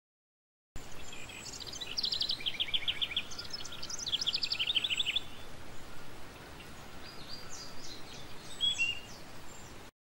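Bird chirping in two quick trills, then a few fainter chirps near the end, over a steady hiss of background noise that starts about a second in and cuts off abruptly just before the end.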